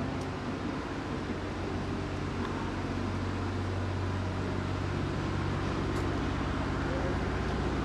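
Steady low rumble of a motor vehicle, growing a little louder near the end.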